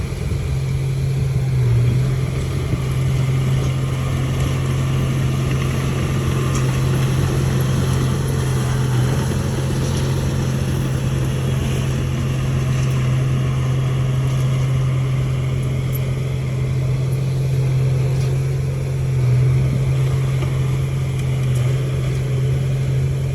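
Bulldozer's diesel engine running steadily under work, a deep continuous drone with slight swells in level.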